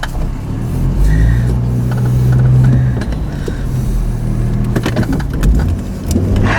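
Car engine running, with a low hum that swells about a second in and eases after about three seconds, plus a few short clicks near the end.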